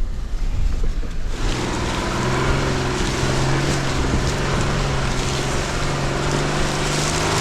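Jeep Gladiator Rubicon's engine running at a steady low crawl, an even hum. About a second and a half in, a loud steady hissing rush joins it and lasts to the end.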